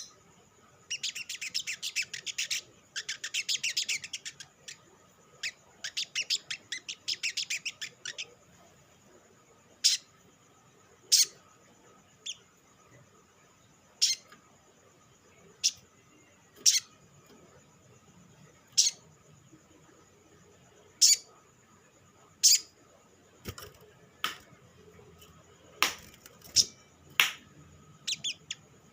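Olive-backed sunbird calling: fast, high chattering trills for the first several seconds, then single sharp high chips every second or two. It is the kind of call used as a lure to set other sunbirds singing.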